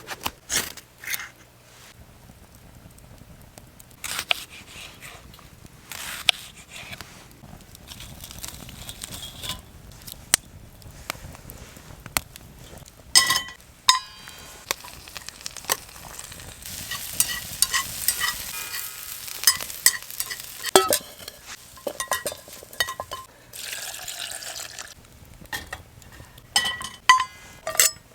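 Cooking in an iron frying pan over a campfire: food sizzling on and off, with a utensil repeatedly clinking, knocking and scraping against the pan. The sizzling is strongest in the second half.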